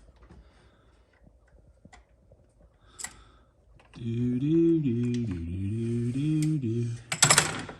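Faint clicks of hand tools in an engine bay. Then, about four seconds in, a man gives a long wordless groan lasting about three seconds, which ends in a short loud rush of noise.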